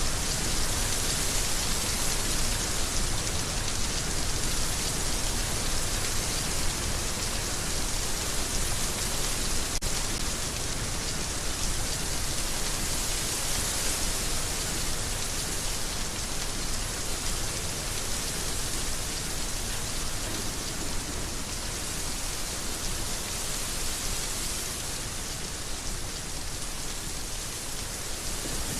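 Heavy rain falling steadily, a dense even hiss of drops on surfaces, easing a little near the end.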